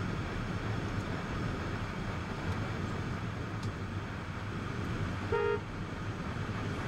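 Steady vehicle and road noise, with one short car horn toot about five seconds in.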